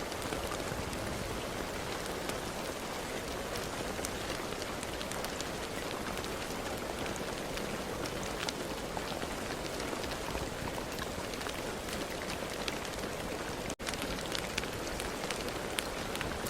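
Steady rain falling on a surface: a constant hiss with many separate drop hits. The sound cuts out for a split second about three-quarters of the way through.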